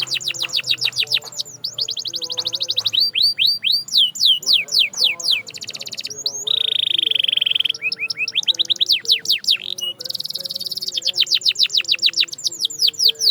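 Canary singing: fast trills of rapidly repeated downward-sweeping notes, with a steady rolling trill held for about a second just past the middle.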